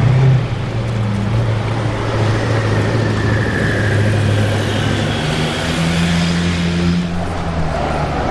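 Koenigsegg Agera R's twin-turbo V8 pulling away from a stop, with a loud burst of revs at the start, then a steady engine note that steps up in pitch about five seconds in.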